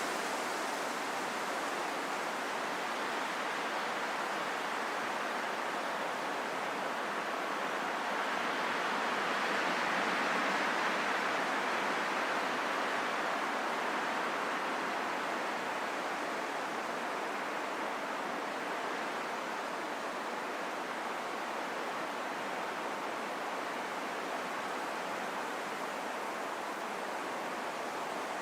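Steady rain falling in a forest, an even hiss that swells a little about ten seconds in and then eases back.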